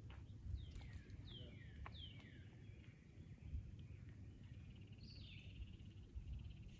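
A songbird calling: a series of short high notes that slide downward, repeated several times, with a buzzy trill about five seconds in, all faint over a low outdoor rumble.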